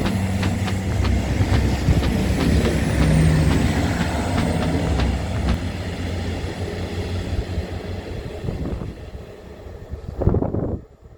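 A train passing and moving away: a steady low engine drone and the clatter of wheels over the rails, fading gradually. There is a thin falling squeal high up a few seconds in, and a short loud gust-like burst near the end before the sound drops off.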